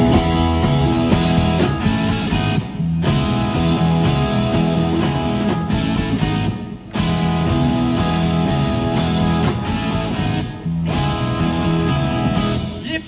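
Instrumental rock intro: a guitar-led band playing sustained chords, with a brief break about every four seconds.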